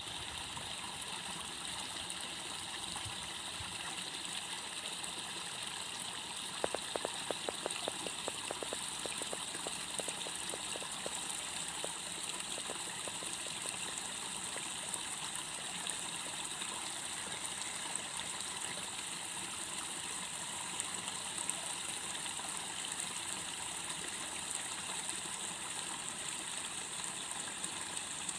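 Steady rush of running water in a rice paddy, with a rapid run of clicking frog calls, about four a second, starting around seven seconds in and lasting several seconds.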